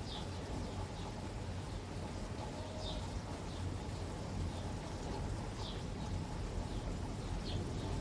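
Steady rain with a low rumble under it. A bird gives a short falling chirp four times, a few seconds apart.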